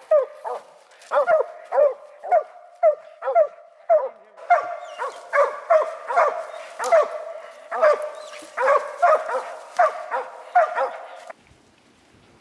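A squirrel dog barking steadily, about two barks a second, typical of a tree dog barking at a treed squirrel. The barking cuts off suddenly near the end.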